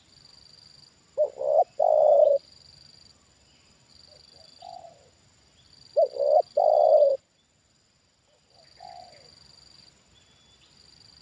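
Spotted dove cooing: two loud three-note coos, each two short notes then a longer one, the first about a second in and the second about six seconds in. Fainter single coos come in between and near the end.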